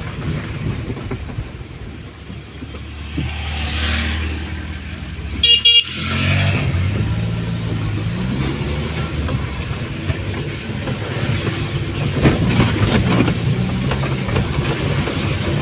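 Motor vehicle engines running, with a short horn toot about five and a half seconds in; afterwards an engine rises and falls in pitch as it revs.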